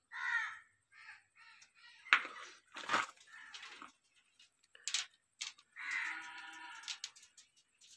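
A bird calling repeatedly: several short calls in the first two seconds and a longer one about six seconds in, with a few sharp knocks between them.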